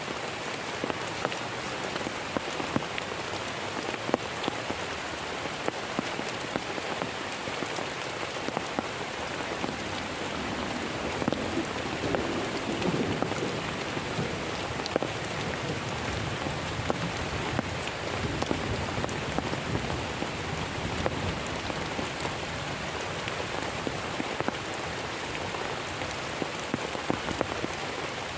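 Heavy rain falling steadily, with many separate drop hits heard through it, and a brief low rumble near the middle.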